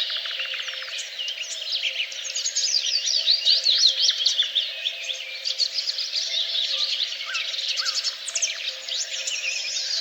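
Many songbirds singing at once, a dense chorus of rapid chirps and sweeping trills, busiest a few seconds in.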